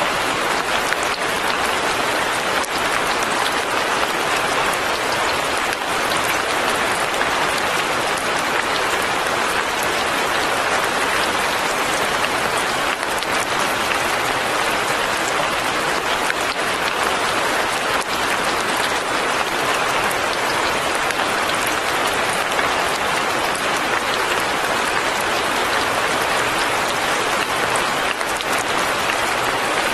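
Light rain falling steadily, an even, dense patter that does not change.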